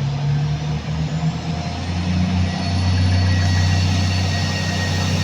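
Pesa 219M diesel multiple unit pulling away from a stop, its diesel engines running up under load with a low drone that grows louder over the first few seconds. A faint high whine rises in pitch.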